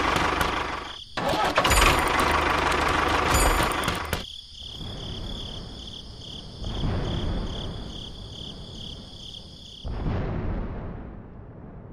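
Miniature model tractor's engine running loudly for about four seconds, then more quietly with a steady high whine that stops about ten seconds in.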